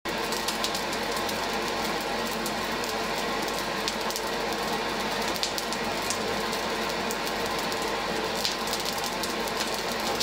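Coal fire burning hard in a blacksmith's forge: a steady rushing noise full of scattered crackles and pops, with a faint steady hum beneath.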